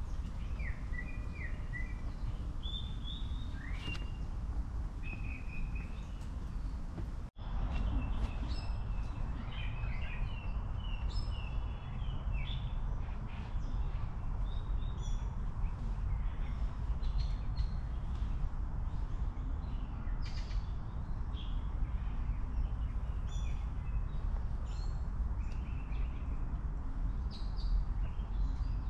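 Small songbirds chirping in short repeated calls over a steady low outdoor rumble; the sound drops out for a moment about seven seconds in.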